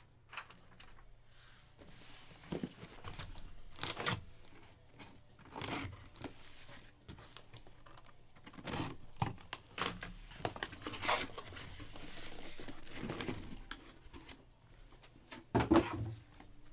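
Plastic wrapping tearing and crinkling in irregular bursts as sports-card boxes and packs are opened by hand, with a sharp knock near the end.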